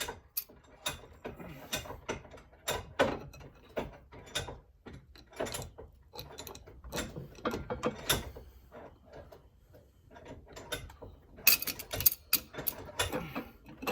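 Irregular metallic clicks and clatter of engine parts and tools being handled on a workbench, with a quick cluster of clicks near the end.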